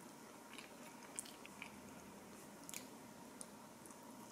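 Faint biting and chewing of a slice of toast topped with scrambled egg: a few small crisp clicks over quiet room tone.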